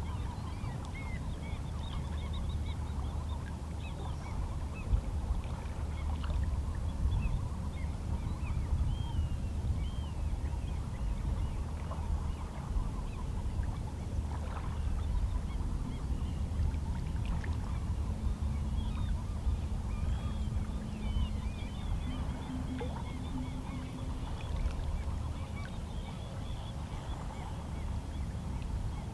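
Calm sea: small waves lapping against shoreline rocks, with many faint seabird calls in the distance.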